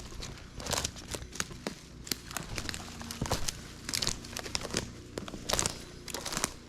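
Footsteps through dry leaf litter on a woodland trail: an irregular run of crinkling, rustling steps.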